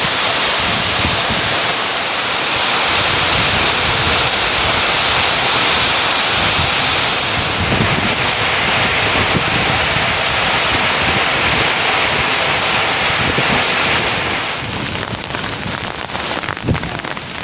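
Heavy rain falling steadily, a dense hiss with many close drops hitting a surface. It grows quieter and duller about fourteen seconds in.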